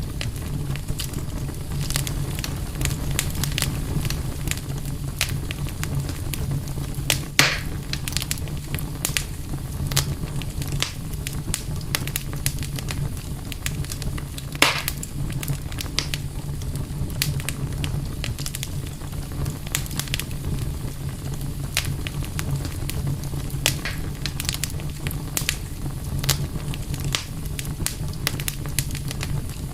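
Campfire crackling steadily, with many small sharp pops and two louder snaps, about seven and fifteen seconds in, over a steady low rumble.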